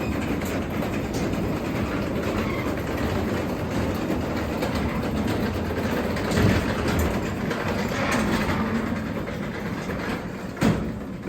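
Craftsman 3/4 hp DC belt-drive garage door opener running steadily as it lowers the door, with the door's rollers rattling along the tracks. A sharp knock comes near the end as the door closes.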